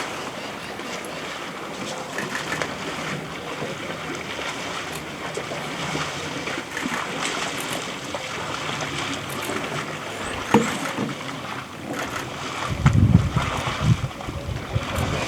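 Elephants splashing and sloshing in water, with wind rushing on the microphone; heavier wind buffeting near the end.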